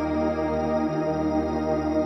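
Synthesizer drone pad in D# (E-flat): a thick stack of held tones sustained steadily, with no melody or rhythm, as ambient worship background music.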